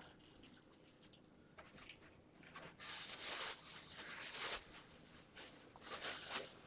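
Soft rustling and scratchy handling noises, with a few light clicks; the loudest bursts come about three seconds in and again near the end.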